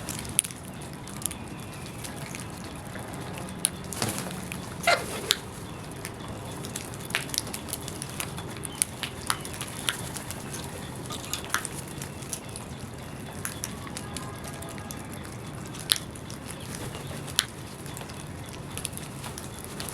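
Birds at a feeding spot: a steady outdoor hiss with scattered short, sharp ticks and chirps, and one brief call about five seconds in.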